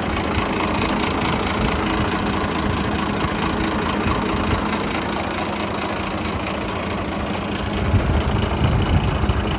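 Mitsubishi Fighter dump truck's 6D15 straight-six diesel engine idling steadily, with the low rumble growing louder and more uneven in the last couple of seconds.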